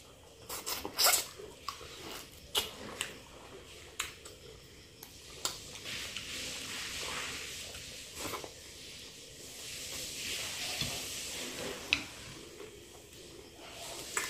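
Close-up chewing of soft stewed goat meat and rice, with wet mouth clicks and smacks scattered throughout.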